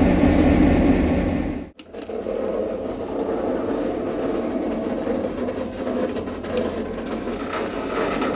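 Unmuffled turbocharged EMD 645E3C V16 diesel locomotive engine running with a loud, steady, deep sound. It cuts off abruptly under two seconds in, then comes back quieter and thinner, with less of the low end.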